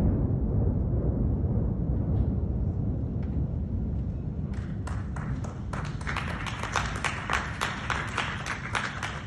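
Deep rumble of tower blocks collapsing in an explosive demolition, slowly fading. About four and a half seconds in, onlookers start clapping.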